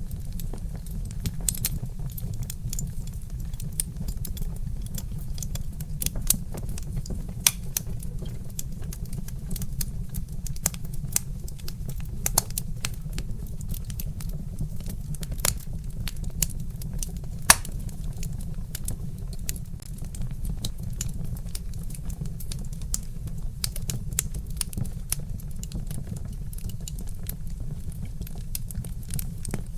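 Wood fire crackling: irregular sharp pops and snaps of burning logs, a few louder ones, over a steady low rumble.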